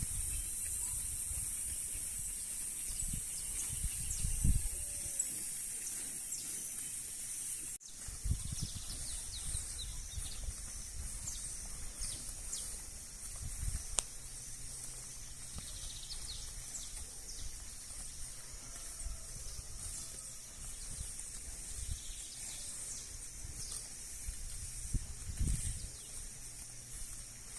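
Rural pasture ambience: a steady high-pitched hiss with scattered short bird chirps, irregular low rumbles of wind on the microphone, and a faint low hum that comes in about halfway.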